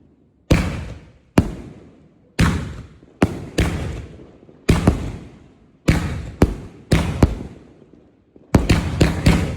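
A 25-shot fireworks cake firing 3-inch Nishiki willow shells: a string of sharp booms, each followed by a long fading echo, at uneven intervals about a second apart, speeding into a rapid run of four or five shots near the end.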